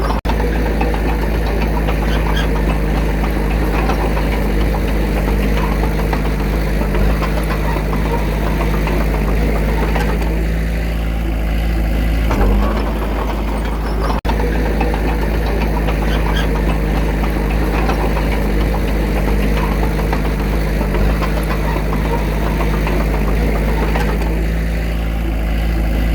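Diesel engine of a construction machine running steadily with a deep low rumble and a knocking diesel note, with no revving. The sound cuts out for an instant twice.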